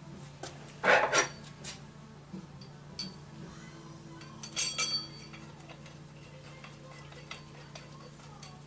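Sharp metallic clinks and clatter of steel bolts and hand tools being handled at the flywheel, a loud cluster about a second in and another about four and a half seconds in, with a few lighter ticks between; a steady low hum underneath.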